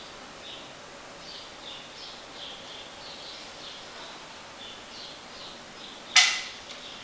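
A small bird chirping over and over, short high chirps about two or three a second. About six seconds in, one sharp metallic clink with a brief ring.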